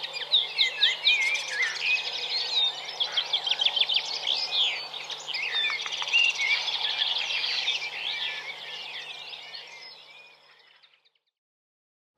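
Chorus of several songbirds singing at once, with many overlapping chirps, warbles and trills. It fades out near the end, and a faint steady low hum lies underneath.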